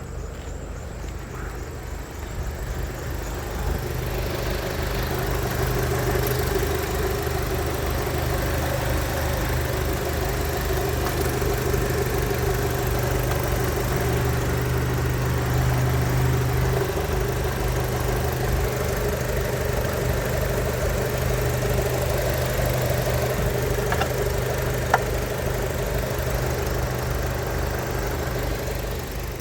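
Audi A4 B7 2.0-litre ALT four-cylinder petrol engine running at a steady idle during a test run, getting slightly louder a few seconds in. A single sharp click near the end.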